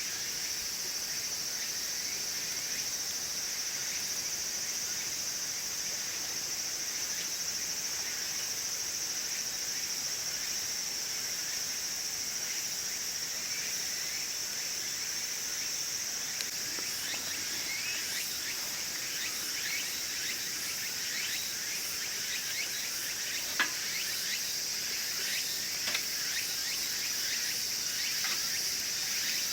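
Insects chirring steadily in a high, even drone. Over the second half a wood fire crackles in scattered light ticks, with two sharper pops.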